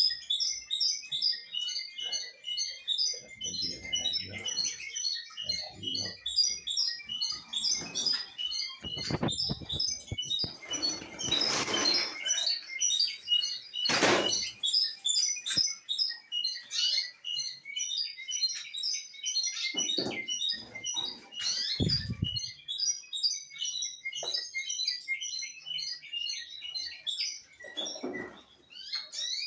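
Many small cage birds chirping together in a dense, continuous chatter. Occasional knocks and rustles are heard, the loudest about halfway through.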